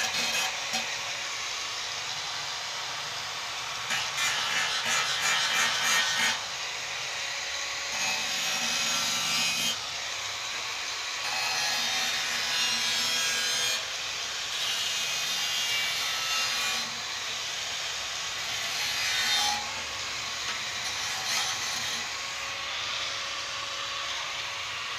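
Hand sanding or scraping on a motorcycle fuel tank: repeated rubbing strokes in runs of a few seconds each, with short pauses between.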